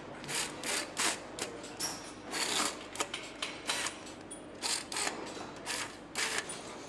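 Irregular clicks, clacks and short hissing bursts, several a second, of tools and parts being worked on an engine assembly line.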